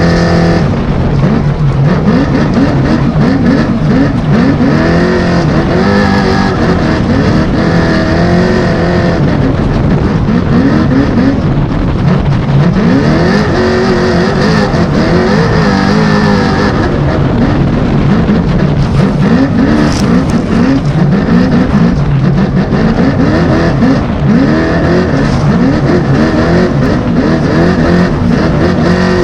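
905-horsepower all-wheel-drive trophy truck's engine at full race pace, repeatedly revving up and dropping back with throttle and gear changes. Heard from on board over rough noise from the truck driving hard off-road.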